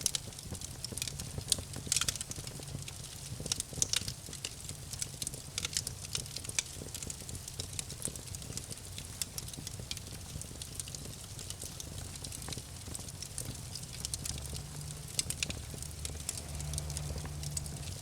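Campfire crackling, with sharp pops of burning wood scattered irregularly throughout over a low steady rumble.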